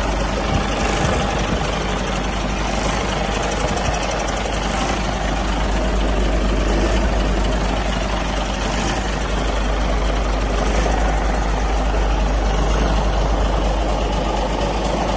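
Detroit DD15 14.8-litre inline-six diesel engine idling steadily with a deep low rumble during a test run, its pitch holding even with no revving.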